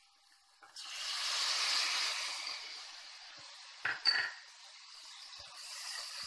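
Chopped tomatoes tipped into hot oil with fried onions and chillies start sizzling suddenly about a second in, the sizzle slowly easing. Two quick knocks against the pan a little before halfway through, then a steady frying sizzle again as the mixture is stirred with a wooden spatula.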